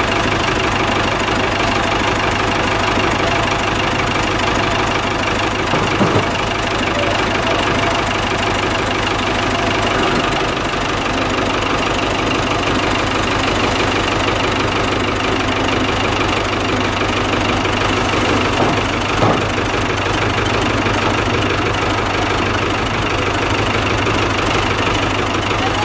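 An engine running steadily at an even speed, with a couple of brief knocks about six seconds in and again near nineteen seconds.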